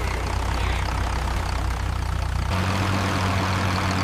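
A vehicle's engine running at a steady, low hum, with the engine note shifting about two and a half seconds in.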